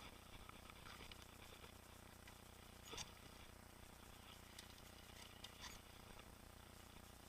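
Near silence, with faint scattered clicks and rattles from a mountain bike on the trail and one sharper click about three seconds in.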